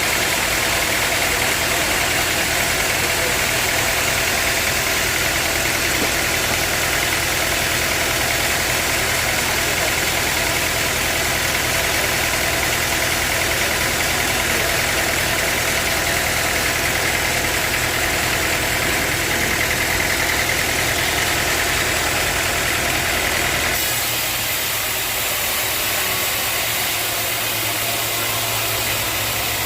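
Sawmill machinery running steadily, a saw cutting teak log. About 24 seconds in the higher sawing sound drops off abruptly, leaving a steadier machine hum.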